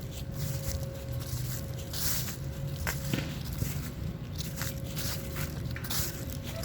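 Footsteps outdoors, each step a short crisp rustle, roughly one a second, over a steady low rumble.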